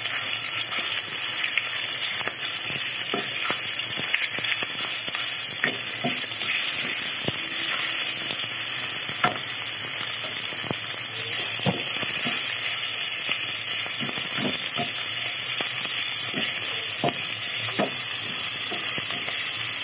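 Minced pork and garlic sizzling steadily in hot oil in a non-stick wok, with a wooden spatula scraping and tapping the pan now and then as the meat is broken up and stirred.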